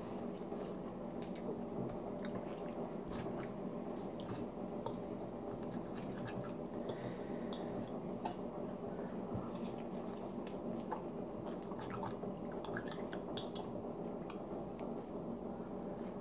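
A person chewing French toast with wet, squishy mouth sounds, with scattered small clicks of a fork on the plate as he cuts and picks up pieces, over a steady low background hum.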